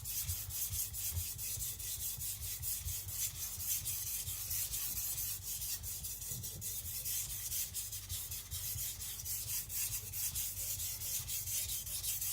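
Tojiro Shirogami nakiri blade stroked quickly and evenly back and forth across a wet Naniwa Professional whetstone, a steady scraping rub. The edge is still being ground toward a burr.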